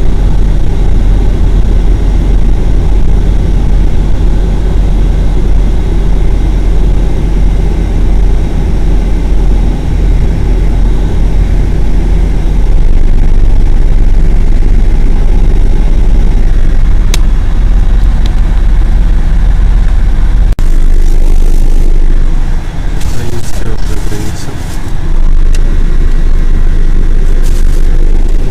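Loud, steady low rumble of a moving road vehicle, heard from inside. The rumble shifts about two-thirds of the way through, and scattered clicks and rustling come in near the end.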